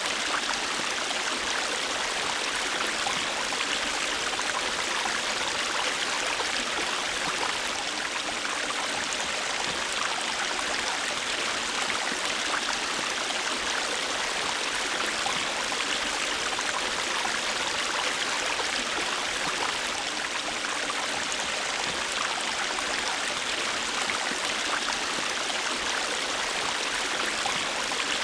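River water flowing and rushing steadily over stones, an even splashing hiss.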